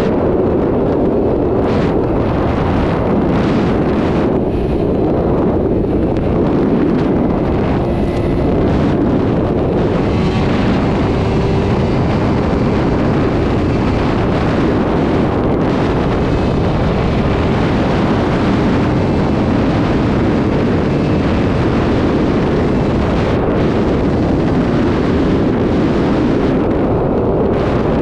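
Sport motorcycle ridden at highway speed: a steady rush of wind over the microphone with the engine running underneath.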